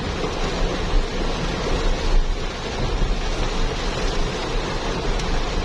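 Steady rain and wind with a deep rumble of wind buffeting the microphone.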